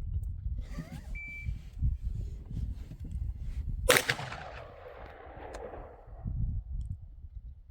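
A single AR-15 rifle shot about four seconds in, followed by its echo rolling away over about two seconds. Wind rumbles on the microphone throughout.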